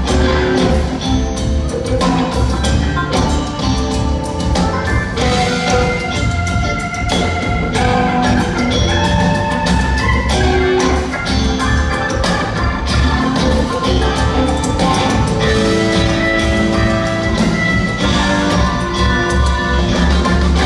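Live band playing a rock-and-roll song, with held instrumental notes over a steady drum and bass beat.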